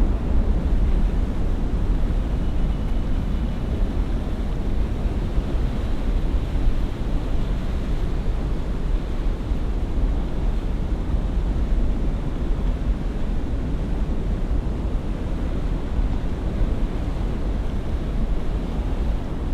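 Steady rumble of boat engines and water, with wind on the microphone.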